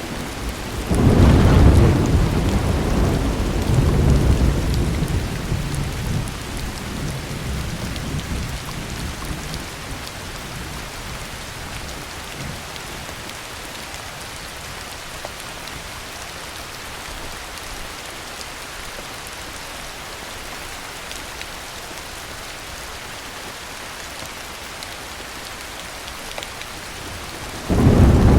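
Heavy rain falling steadily. About a second in, a thunderclap breaks into a long rolling rumble that swells again and dies away over several seconds. Another thunderclap starts just before the end.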